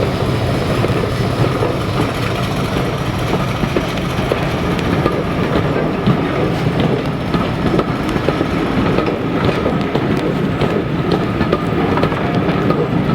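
A train running along the line, a loud steady rumble of wheels on rails, with sharp clicking from the wheels over rail joints in the latter part.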